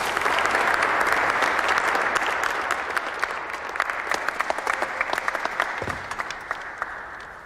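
Audience applauding, the clapping thinning out into scattered single claps and fading away over several seconds.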